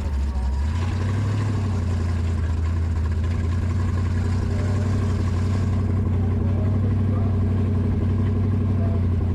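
318 Hemi V8 in a Corolla station wagon burnout car idling steadily, its low running note rising slightly about a second in and then holding even.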